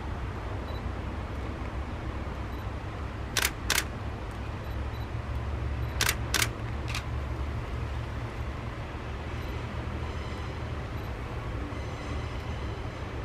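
Low steady rumble of a slowly moving train, with five sharp clicks: two quick pairs and then a single one.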